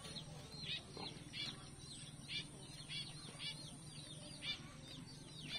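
A bird calling over and over, faint short falling chirps about two a second.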